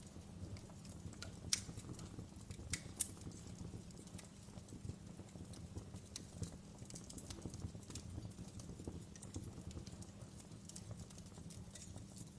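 Wood fire crackling in a fireplace: irregular sharp pops and snaps over a low, steady rumble of the flames. The loudest pops come about a second and a half and about three seconds in.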